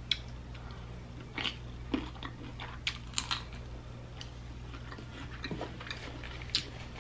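Close-up eating sounds: irregular wet mouth clicks and smacks of chewing seafood and licking fingers, over a low steady hum.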